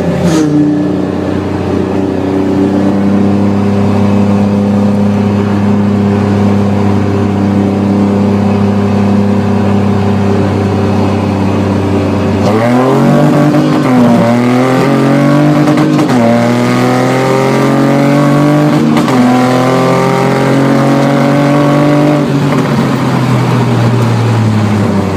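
Jaguar 3.0 V6 engine in a stripped-out MGB GT track car, running loud and steady for about twelve seconds. The revs then climb and drop several times, pulling up to a held higher speed before falling away near the end.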